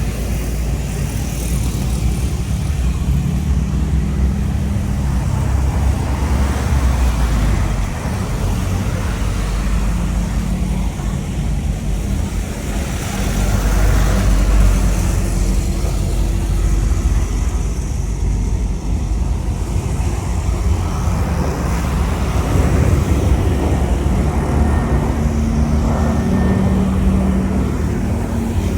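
Loud, steady low rumble of an airliner's engines during its takeoff, mixed with road traffic. A low hum comes in and grows somewhat stronger near the end.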